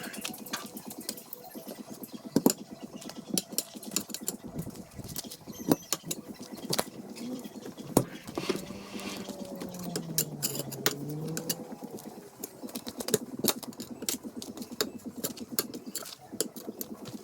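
Irregular metal clicks and knocks from hand work on a tractor tyre rim while a tube and tyre are being fitted. About halfway through, a low wavering tone dips and rises for a few seconds.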